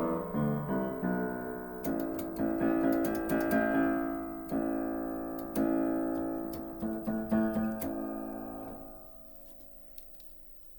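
Aldrich spinet piano being played: a quick run of separate notes, then a series of ringing chords that fade away about nine seconds in. The piano is unrestored and being tried out before its restoration.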